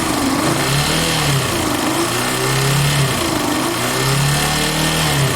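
Yamaha Factor 150 single-cylinder engine revved up and down a few times, with a strange vibrating whir like a blown bearing or a turbo. The burnt, shorted stator is connected, and the mechanic suspects it sets up a magnetic drag on the flywheel.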